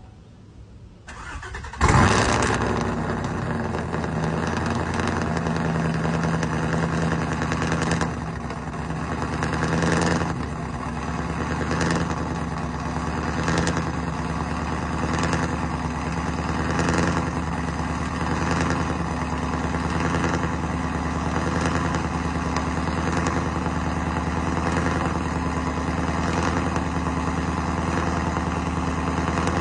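Cold start of a 2016 Chevrolet Silverado's cammed, supercharged 5.3 L V8 with long-tube headers and a Corsa exhaust: a short crank, then the engine fires about two seconds in. It settles into an idle that rises and falls every second or two, the lope of its aftermarket cam.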